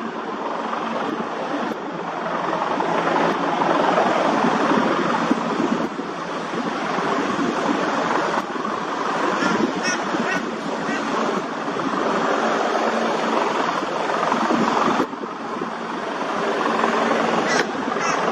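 Helicopter engine and rotor noise, a loud rushing sound with no break.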